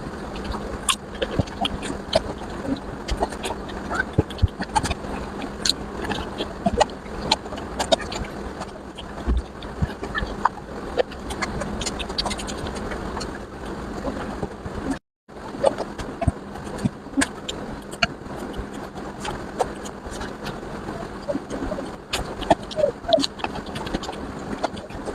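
Close-up eating sounds of curry and rice being chewed: continual chewing with many sharp mouth clicks and smacks. The sound cuts out completely for a moment about fifteen seconds in.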